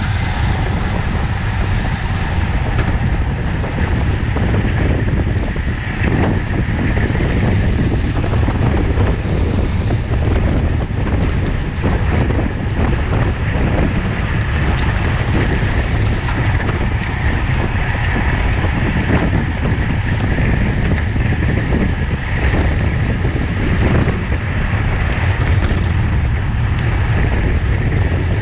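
Steady wind rush buffeting the microphone of a camera on a racing bicycle ridden at speed.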